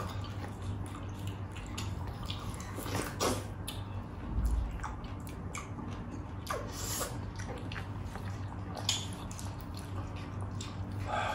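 Close-miked eating: chewing with wet, smacking mouth sounds and scattered short clicks, over a faint steady low hum.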